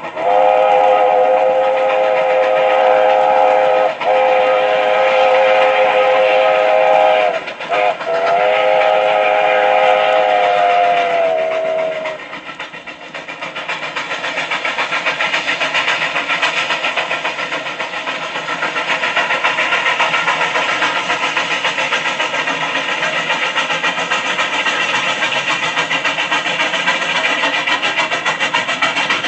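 A full-size train sounds a long chime of several notes, broken briefly twice, and the notes drop in pitch as it dies away about twelve seconds in. The chime gives way to the steady rumble and rapid clatter of the passing train, which grows louder.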